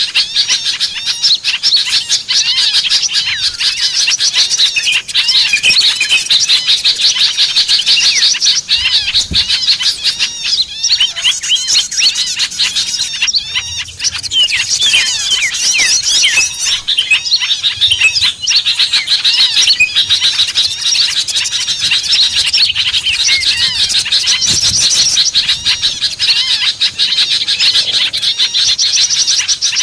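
A busy, unbroken chorus of many small songbirds chirping and twittering over one another, the rapid high calls overlapping throughout. This is a bird-lure (pikat) recording of excited small-bird chatter, used to draw wild small birds in.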